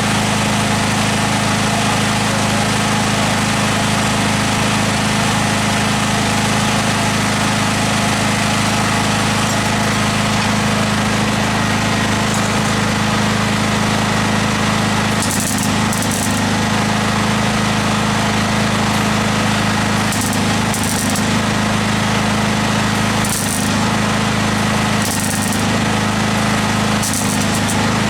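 A machine running steadily, with a strong low hum and a constant crackling hiss over it, and short sharper hissy spurts several times in the second half.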